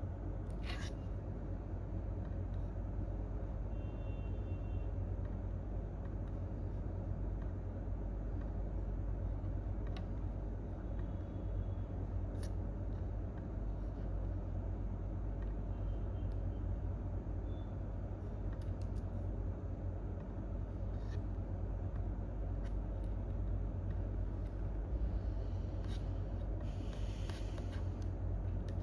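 Steady low rumble of a quiet office room, with a few isolated clicks and taps spread through it and a short rustle near the end.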